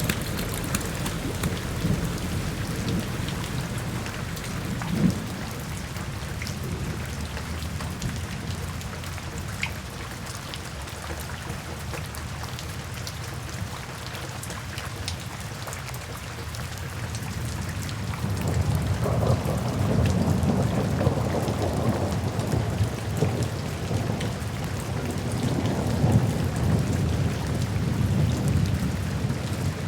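Steady rain falling in a forest, with many small drops ticking. About two-thirds of the way through, a long low rumble of thunder swells up and rolls on.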